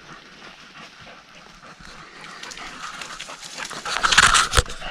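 A dog panting, getting louder toward the end, with a single knock near the end.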